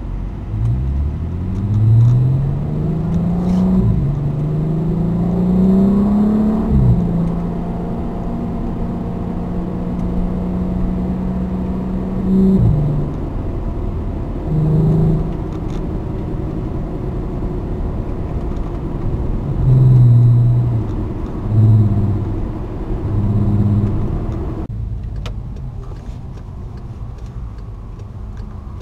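VW Passat R36's 3.6-litre VR6 heard from inside the cabin, with the centre suitcase muffler removed. The engine climbs in pitch three times, dropping back between climbs as if changing up through gears, then holds a steady note. After that come several short swells of throttle, and it settles quieter near the end.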